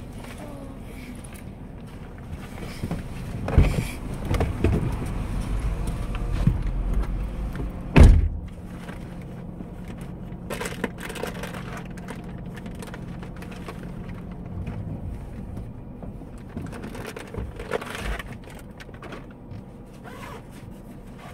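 Inside a parked car, the engine idling with a steady low hum that cuts off about fifteen seconds in. Rustling and handling noises sit over it, and a single sharp knock about eight seconds in is the loudest sound.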